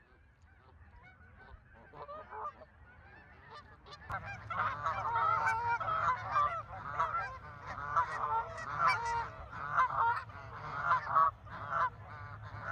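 A flock of Canada geese honking, many calls overlapping. The calls are sparse and faint at first, then become loud and continuous from about four seconds in.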